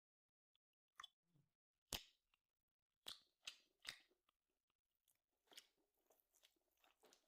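Close-up sounds of a person chewing a bite of grilled steak: a string of soft, wet clicks and crunches, sharper in the first half and softer and quicker near the end.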